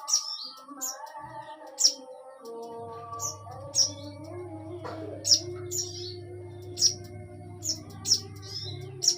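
Crimson sunbird (sogon) calling: sharp, high, short chirps repeated about once a second, over a steady lower tone.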